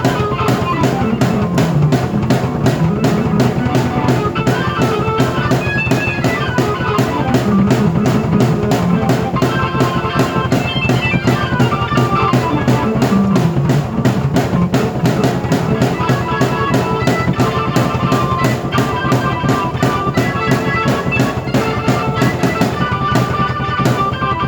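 Drum kit and keyboard played at the same time: a steady driving drum beat with bass drum under a melodic keyboard line.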